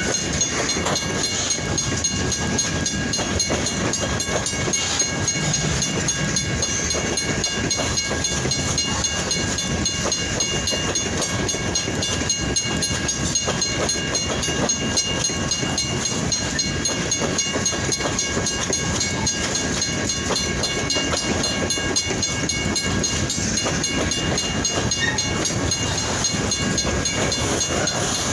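A long freight train's cars rolling past, a steady wheel-on-rail rumble that runs on without a break.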